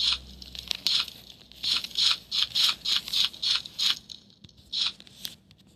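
Slime being squeezed and worked in the hands, making a run of short crackling squishes about three a second that thin out near the end.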